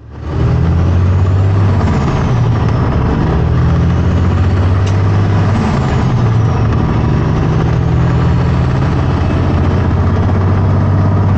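Heavy diesel engine of a 2005 Kenworth T800 truck running steadily, with a deep, even hum; the sound fades in quickly at the start.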